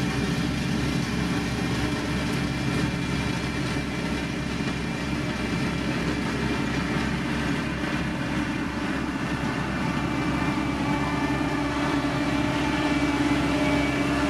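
Heavy road-construction machine, a motor grader or road roller, with its diesel engine running steadily under load. A tone in the engine note grows a little stronger near the end.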